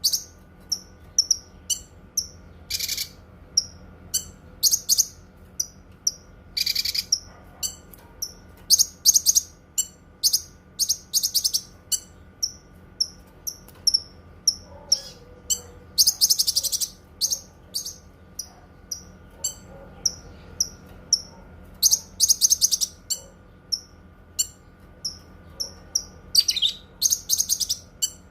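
A cucak kinoi songbird calling over and over with short, high chirps about twice a second, broken several times by longer, buzzy, rattling song phrases.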